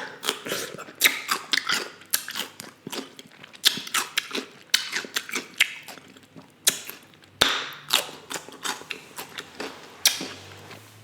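Close-up eating sounds from a person chewing seafood: wet chewing with many sharp, irregular mouth clicks and smacks, several a second.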